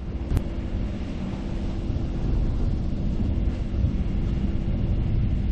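A sailboat's auxiliary engine running steadily under way while motoring in light winds, with wind on the microphone and one sharp click about half a second in.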